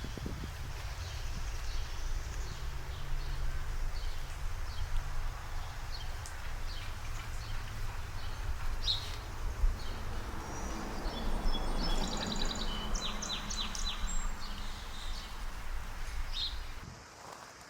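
Small birds chirping in short, high calls, with a rapid trill about twelve seconds in, over a steady low rumble of outdoor background noise. The sound drops off suddenly near the end.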